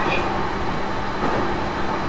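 Steady running noise heard inside a JR East E233 series electric train's motor car under way between stations, with the car's air conditioning running.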